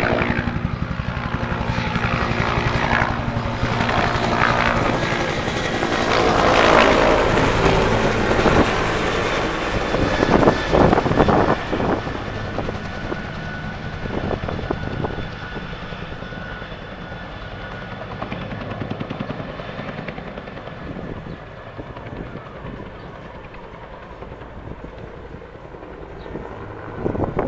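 Helicopter flying past, loudest through the first dozen seconds, then fading away as it moves off.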